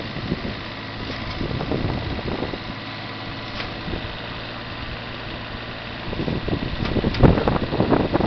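Digger's engine running at a steady idle, with wind buffeting the microphone from about six seconds in.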